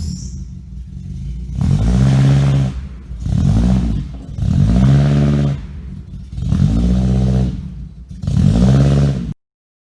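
Honda CR-V engine running and being revved five times, each rev rising and falling in pitch over about a second, before the sound cuts off abruptly near the end.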